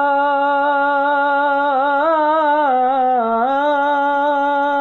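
One voice singing a Punjabi naat, holding a single long note with a wavering, ornamented dip in pitch in the middle before it settles back on the note. No instruments can be heard with it.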